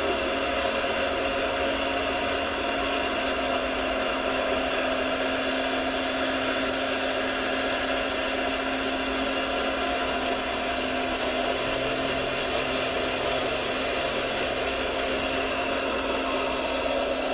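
Small electric motors of a radio-controlled model construction machine running steadily, a constant motor whine made of several steady tones.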